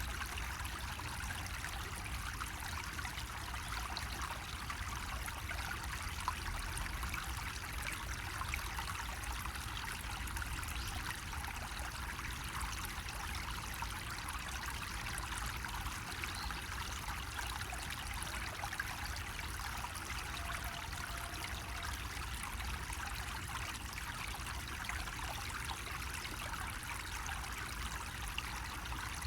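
Water running steadily from a bamboo spout and splashing into the water below, with a steady low rumble underneath.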